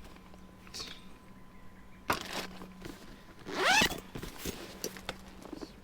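Handling noises: a sharp click, then a second later a short rasping sweep that rises and falls in pitch, with small knocks and rustles around them.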